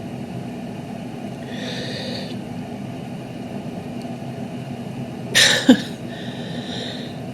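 A woman breathing unsteadily and sniffing as she holds back tears. About five seconds in there is a sharp, shaky intake of breath with a brief voiced catch, a sob.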